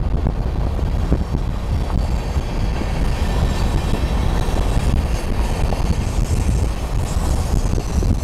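Long freight train of boxcars rolling along the rails: a steady, dense rumble of wheels and cars, heard from a car travelling beside it with wind on the microphone.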